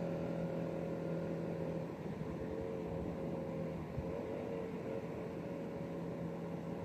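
Engine running with a steady pitched note that breaks off about two seconds in, after which its pitch wavers up and down over a background of noise.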